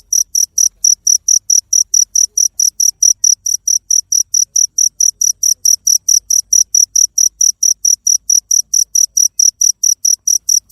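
Cricket chirping, a steady, even train of short high-pitched pulses at about five a second.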